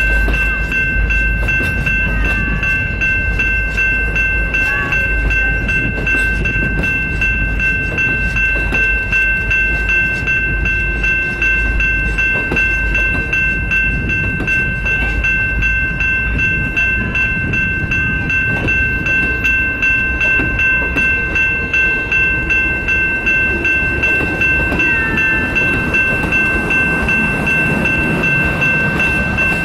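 Grand Canyon Railway train hauled by EMD F40FH diesel-electric locomotives running steadily. There is a low diesel rumble with a regular pulsing beat, and a steady high two-note whine held throughout.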